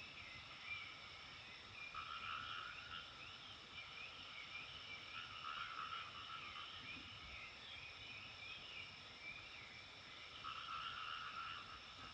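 Frogs calling in a faint, continuous chorus, with louder bouts of calling about a second long recurring a few seconds apart over a steady high-pitched hum.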